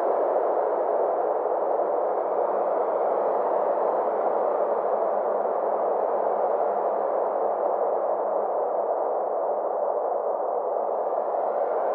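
Synthesized space-ambience drone: a steady band of soft, filtered noise in the middle range whose upper edge slowly sweeps down and back up, over a faint steady low hum.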